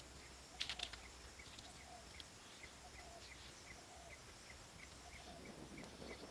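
Faint outdoor ambience of animal calls: a short high chirp repeating evenly about three times a second, with softer lower calls now and then. A few light clicks come about a second in.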